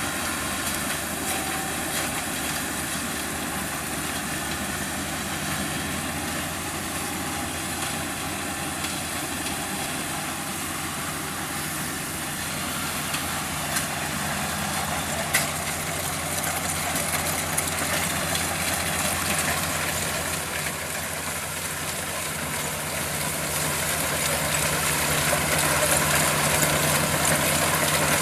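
Diesel engine of a Kubota DC-35 combine harvester running steadily, with a sharp click about halfway through. It grows somewhat louder in the last few seconds.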